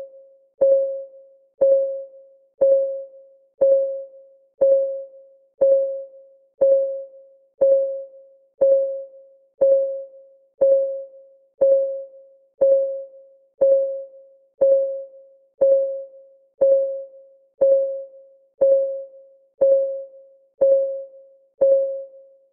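Clock-ticking sound effect of a countdown timer: a short, pitched tick once a second, each one ringing briefly and dying away, keeping an even beat.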